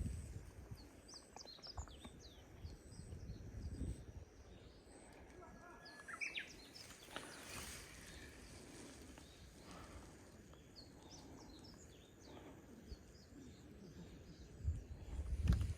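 Small birds chirping and calling, many short high chirps with one louder sliding call about six seconds in, over intermittent low rumbling.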